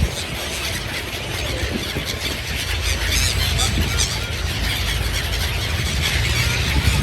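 Birds calling in short, high, repeated chirps over a steady low rumble.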